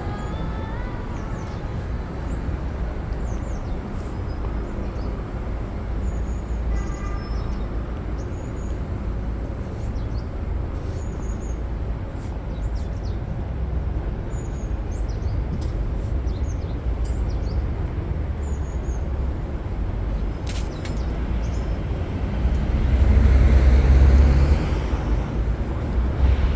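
City street traffic: a steady low rumble of vehicles going by, with one heavy vehicle passing close and louder near the end.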